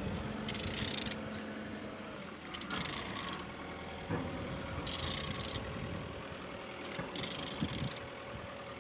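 A used car engine being turned over by hand, a mechanical rasping coming in strokes roughly every two seconds; it turns freely.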